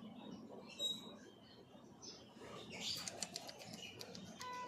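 Faint animal-market ambience: a run of quick, sharp chirps from small caged birds starting about three seconds in, then a short, high kitten mew with a slightly falling pitch near the end.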